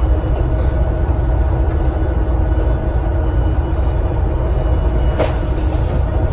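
Volvo B7TL bus's six-cylinder diesel engine running steadily under way, a low rumble with a steady thin whine from the turbocharger. A single short knock sounds about five seconds in.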